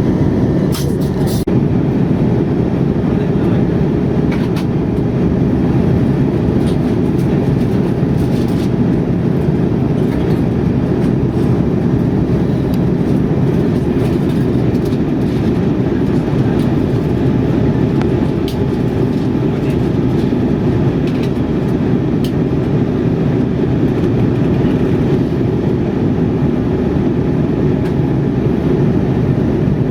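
Steady engine and airflow noise inside an Airbus A320 airliner's cabin: an even, loud rumble.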